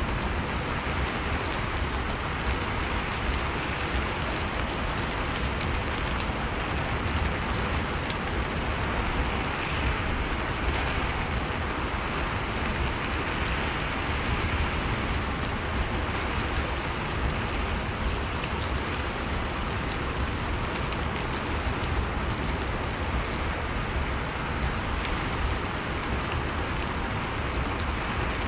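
Steady rain falling, a continuous hiss with fine pattering drops and a low rumble underneath.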